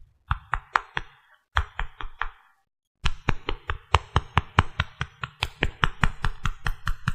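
Rapid tapping on a hard object, in three runs: two short ones, then a longer steady run at about five taps a second.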